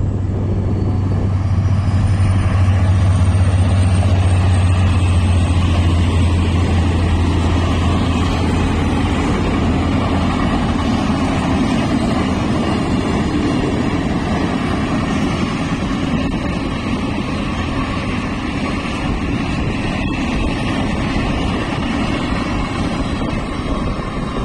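Passenger express train passing by: a steady low hum for about the first ten seconds, then a continuous rolling rumble as the coaches go by.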